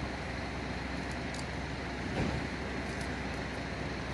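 Steady vehicle noise, an engine running amid traffic, with a brief louder low sound about two seconds in.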